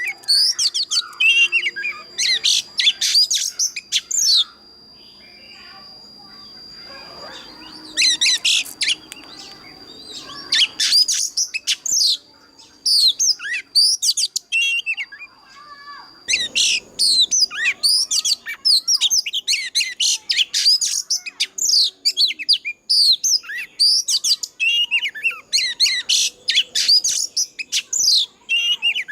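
Oriental magpie-robin singing a loud, rapid, varied song of whistles and chirps in bursts of a few seconds, becoming almost continuous about halfway through. A thin steady high tone runs under the first half.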